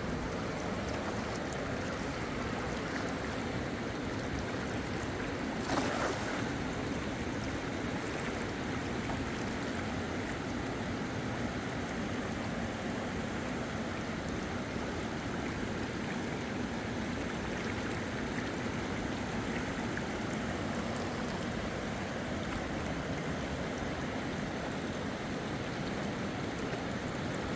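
Steady rushing of river water, with one brief louder noise about six seconds in.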